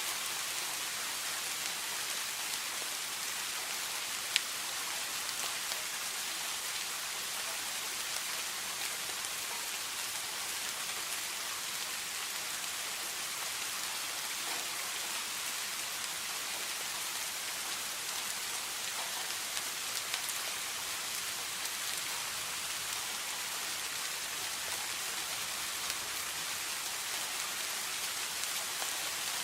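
Steady rain falling, an even hiss with scattered individual drop taps; one sharper tap stands out about four seconds in.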